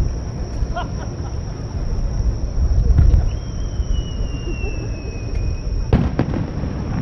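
Fireworks: a whistle rises out of a low rumble about three seconds in and falls slightly in pitch for about two and a half seconds. A sharp bang of a bursting shell follows about six seconds in.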